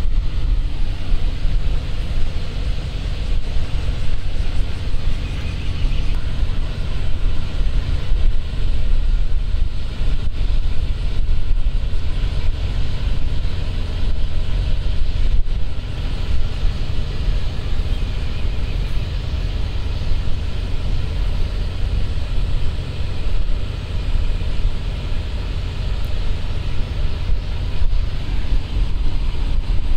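Steady low rumble of a large patrol ship's engines underway, mixed with wind buffeting the microphone.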